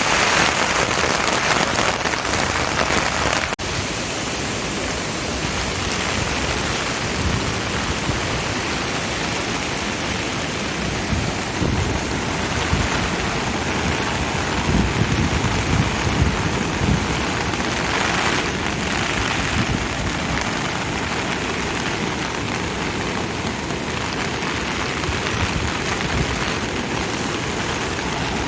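Steady rushing noise of water in a typhoon, with stronger low rumbling swells in the middle.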